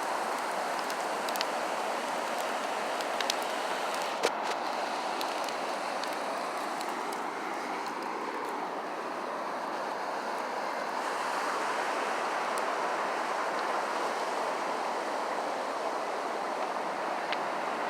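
Steady rushing of beach surf and wind, with a few sharp pops from a bonfire, the loudest about four seconds in.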